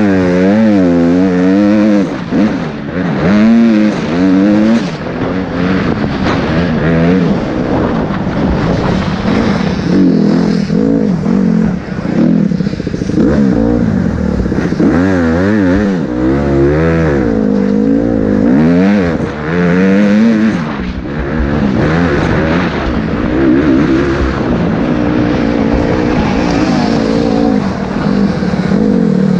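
Motocross bike engine revving hard and easing off over and over, its pitch climbing and dropping every second or two as the throttle is opened and shut through the gears.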